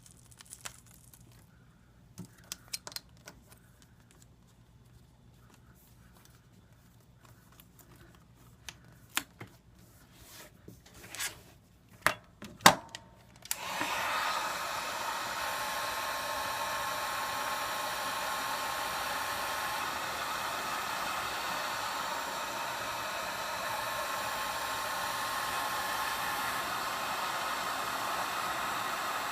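Scattered small clicks and taps of tools against the iPad for the first half. About 14 s in, a heat gun switches on and blows steadily with a hiss and a faint whine, heating the glass to soften the screen adhesive.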